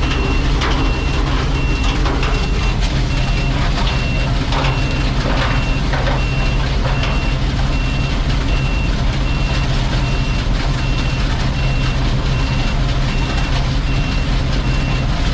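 Combine harvester running steadily under load, with a high warning beep repeating about twice a second throughout. Scattered crackling clicks in the first half, which the operator takes for broken windshield glass going through the machine.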